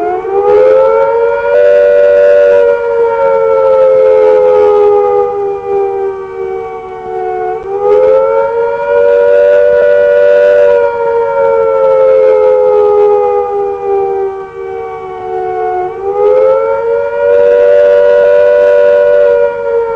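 Civil defence air-raid siren sounding the attack warning, a rising and falling wail. The pitch climbs quickly about every eight seconds and then sinks slowly, three times. It is the signal that a nuclear attack is expected.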